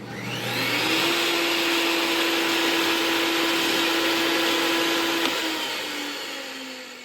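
Electric power-tool motor switched on and spinning up over about a second, running steadily, then switched off and winding down with a falling whine near the end.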